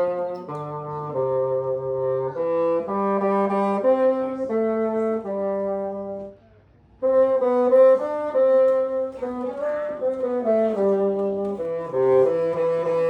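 Bassoon and clarinet playing a tune together, the bassoon's lower line under the clarinet's melody. They stop for under a second about halfway through, then play on.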